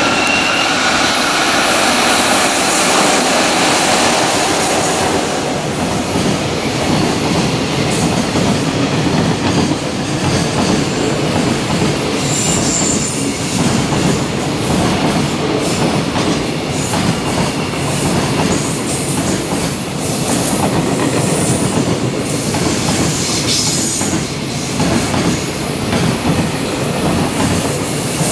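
JR Freight container train hauled by an EF66 electric locomotive passing close by: a steady rumble of many wagon wheels with a rhythmic clickety-clack over the rail joints.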